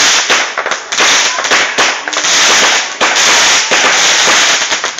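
Firecrackers going off in a rapid, nearly unbroken string of loud sharp bangs.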